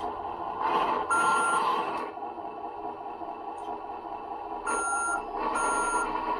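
RC scale truck's electronic sound unit playing reversing beeps through its small speaker: a steady high beep about half a second long, once about a second in and twice near the end, over the unit's running engine sound, which swells with each beep.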